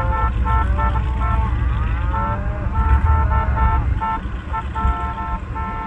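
Vehicle horn tooting in many short, irregular blasts over a steady low rumble.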